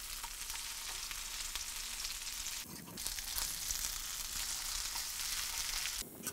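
Mashed potato, stuffing, turkey and bacon cakes frying in butter and oil in a skillet, sizzling steadily with fine crackles. The sizzle drops out briefly about three seconds in.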